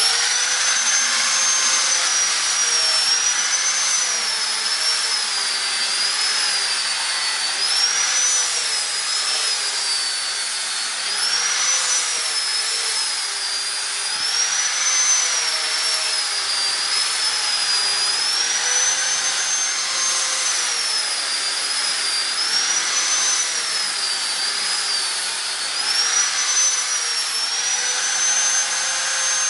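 Electric hand grinder fitted with coarse sandpaper, spinning fast and rasping against a square cage bar as its edges are ground round. Its high whine rises as it spins up at the start, then dips and recovers over and over as the bar is pressed in and turned, and it steadies near the end.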